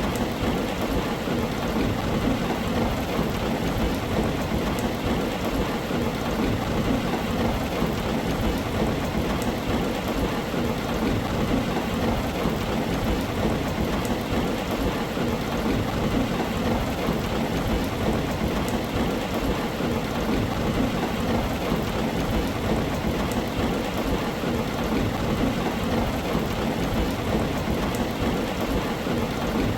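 Heavy rain falling steadily on a tin roof, with a continuous low rumble of thunder underneath.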